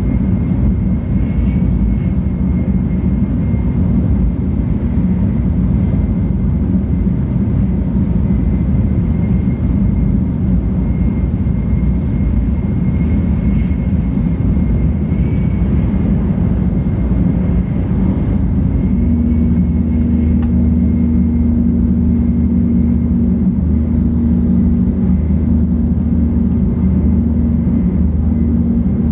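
Cabin noise inside a 700 series Tokaido Shinkansen running at speed: a loud, steady low rumble with a faint high whine over it. About nineteen seconds in, the rumble changes to a steadier, more droning hum.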